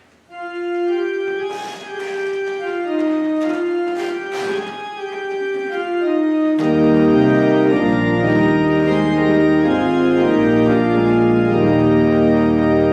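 Organ playing a slow melody in single held notes, joined about six and a half seconds in by full chords and a deep bass line.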